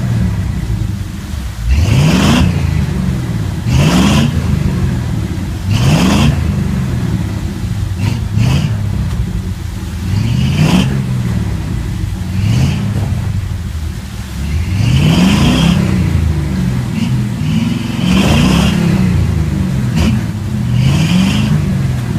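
An engine revved again and again, its pitch rising about every two seconds and falling back between revs, with a hiss at each rev.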